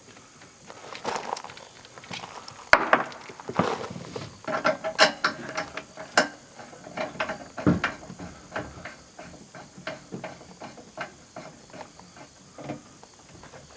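Irregular metallic clicks, clanks and knocks of a propane bottle and its hose fitting being handled and connected, with a sharp click about three seconds in and a few brief metal rings midway.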